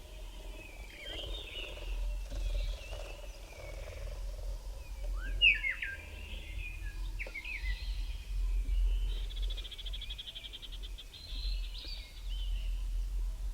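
Several birds calling: scattered chirps and whistles, a loud cluster of sharp slurred notes about five seconds in, and a fast, even trill from about nine to eleven seconds, over a low steady rumble.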